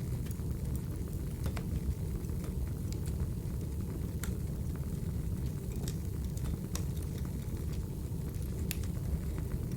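Burning firewood crackling: a steady low rumble of the fire with irregular sharp pops and snaps.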